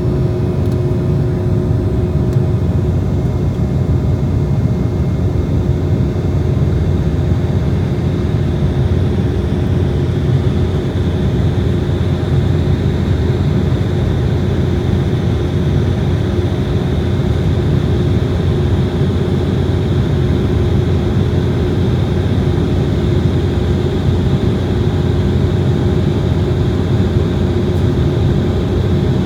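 Steady cabin noise of an Embraer jet airliner with its turbofan engines running under power: a deep, even rumble with a steady whine. The higher whine grows slightly stronger about a third of the way in.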